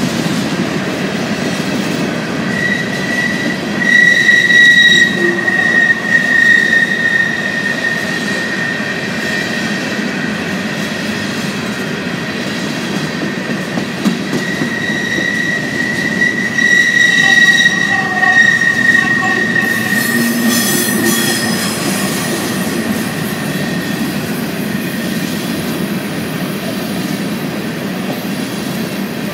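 Empty coal hopper cars of a freight train rolling past at close range: a steady rumble of wheels on rail, with a high wheel squeal that rises in twice, from about three seconds in and again from about fifteen seconds in, loudest near five and eighteen seconds.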